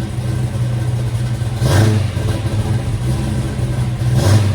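Yenko Camaro replica's 427 V8, breathing through long-tube headers and Flowmaster 40 Series mufflers, idling with a lopey burble and blipped twice, about a second and a half in and again near the end, each a short rev that drops straight back to idle.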